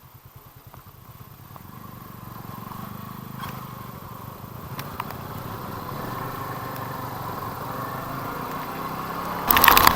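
Motorcycle engine running, with a low, even pulse that grows steadily louder. A sudden loud rush of noise cuts in near the end.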